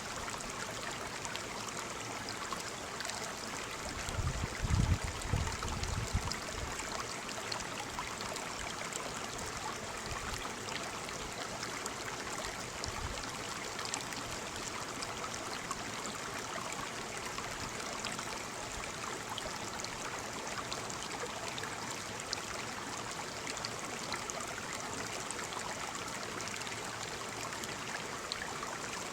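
Waterfall: a steady rush of falling water. A brief low rumble about four to six seconds in is the loudest moment.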